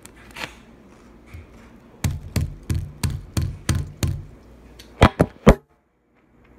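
Knife chopping on a cutting board: about seven even chops, roughly three a second, then three sharper knocks.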